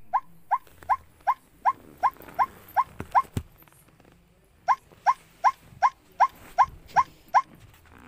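White-breasted waterhen calling: a fast string of short, identical, slightly rising notes, about three a second, in two runs with a brief pause between them.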